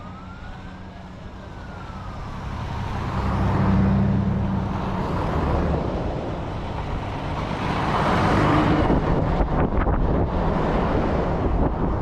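Vehicles passing on a road. One with a low engine hum builds to a peak about four seconds in, and a second passes with a rush of tyre noise around eight seconds in. A single siren wail, rising then falling, sounds faintly at the start.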